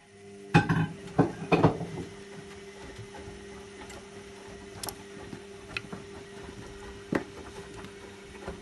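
Zanussi Lindo 100 washing machine tumbling its drum in the main wash of a cottons 40 cycle: a steady motor hum with several loud knocks in the first two seconds as the drum gets going, and a few sharp clicks later.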